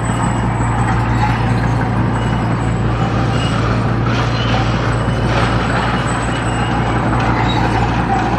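Heavy diesel construction machinery running steadily, a constant low engine hum with mechanical noise over it.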